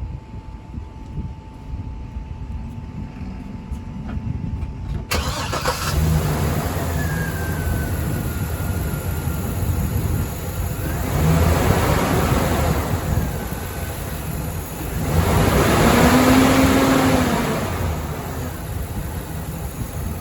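2013 Chevrolet Silverado 2500's engine cranking and catching about five seconds in, then running, with the revs raised twice, once near the middle and again toward the end.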